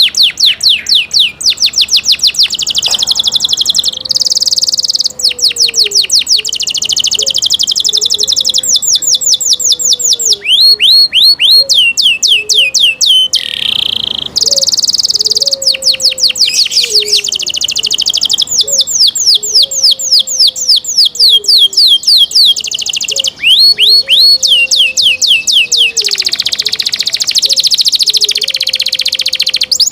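Domestic canary singing a long song of fast rolling trills: rapid strings of the same sweeping note, switching to a new trill every second or two with only brief breaks.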